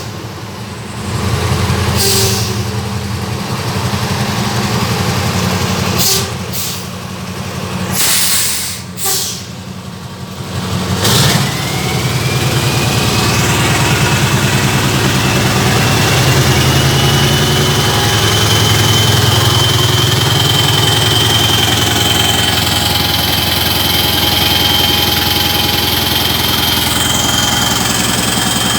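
Scania V8 diesel engine running unevenly for the first several seconds, then settling into a steady idle. About eleven seconds in a high whine rises and then holds steady.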